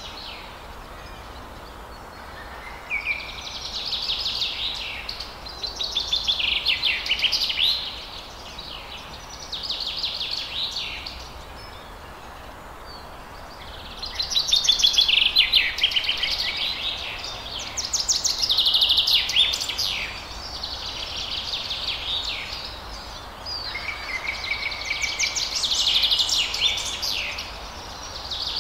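A songbird singing in repeated bouts a few seconds long, each made of fast, high trilled phrases, with short pauses between them, over a steady background hiss.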